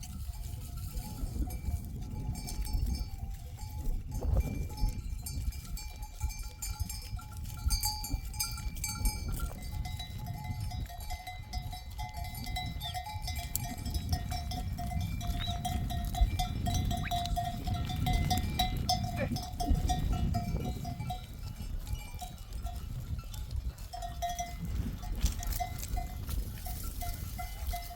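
Bells on a grazing sheep flock clanking irregularly. Some notes ring on, most thickly through the middle stretch.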